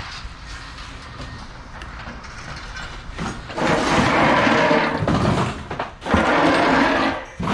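Loose scrap metal pieces clattering as they are poured out, in two rattling pours of a second or two each, starting about halfway through.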